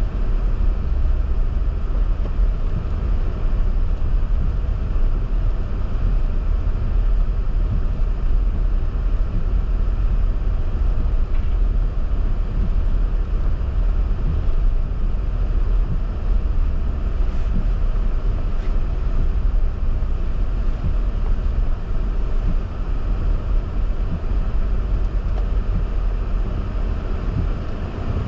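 Steady low rumble of a car being driven: engine and road noise with some wind, unbroken throughout.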